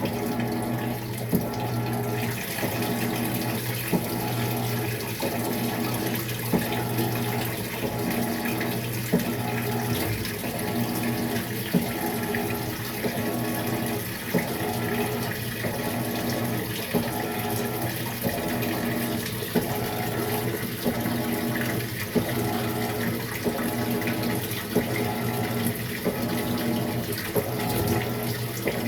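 Maytag MVWX655DW1 top-load washing machine on its tub-clean cycle: water rushing and splashing over a steady motor hum, with a sharp tick about every two and a half seconds.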